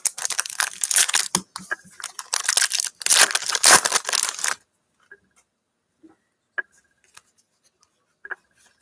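Foil trading card pack wrapper being torn open and crinkled, in two loud stretches in the first half, then a few faint light clicks from the cards being handled.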